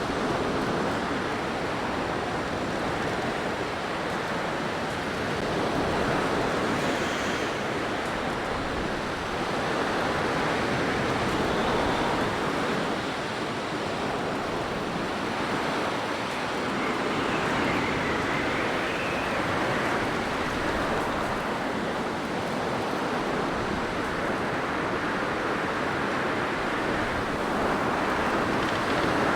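Blizzard wind blowing hard and steadily, swelling and easing every few seconds, with a faint high whistle now and then.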